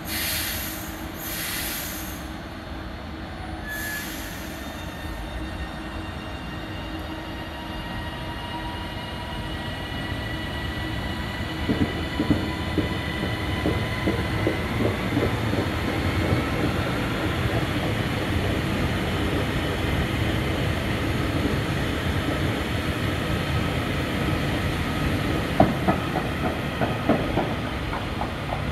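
A TransPennine Express Class 802 train runs slowly past along the platform, growing gradually louder. Thin high tones drift slowly in pitch, and several sharp wheel clicks come in the second half.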